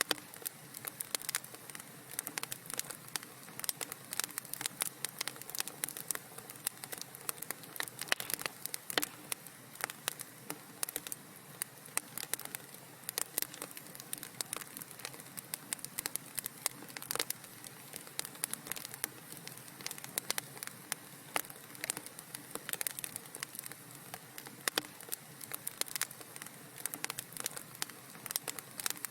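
Wood fire crackling in a fireplace: a constant stream of sharp, irregular pops and snaps over a soft steady hiss.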